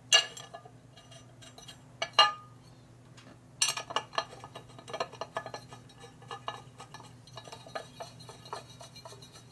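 Loose metal parts clinking and rattling against each other as they are handled and test-fitted. There are a couple of sharp, ringing clinks at the start and about two seconds in, then a run of quick rattling clinks from about three and a half seconds in, over a faint steady hum.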